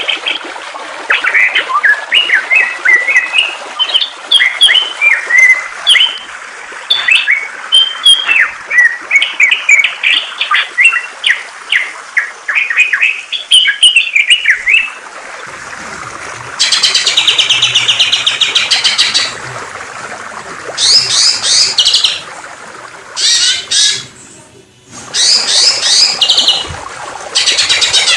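Songbirds singing over running water. The first half has quick varied chirps and whistled notes. After an abrupt change about halfway, there are bursts of rapid high trills a few seconds long, with a faint low hum underneath.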